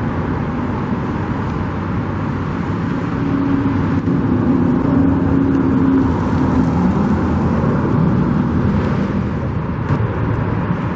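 Road traffic: a steady rumble of vehicles, with one engine's hum coming up in the middle and fading out by about seven seconds in.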